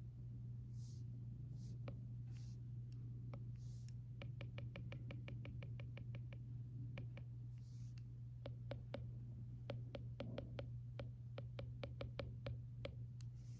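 Stylus writing on an iPad screen: a few short scratchy strokes in the first seconds, then a long run of quick, light taps from about four seconds in. Under it runs a steady low hum of room ventilation.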